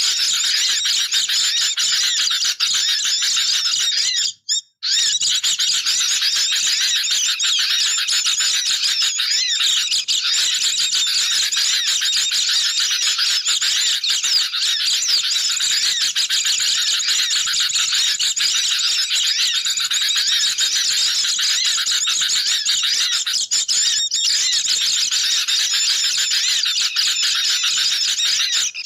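Dense, continuous chorus of chattering bird calls from sooty-headed bulbuls and white-eyes, layered into a bird-lure recording. It breaks off for a moment about four and a half seconds in, then carries on.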